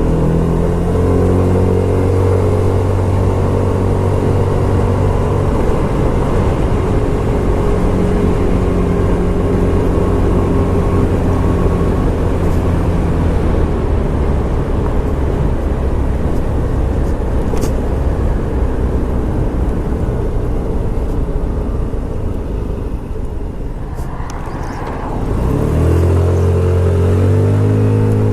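Scomadi TT125 scooter's 125 cc engine running while riding, over a steady rushing noise. The engine note fades into the rush about halfway through and dips as the rider eases off, then climbs in pitch as the scooter accelerates near the end.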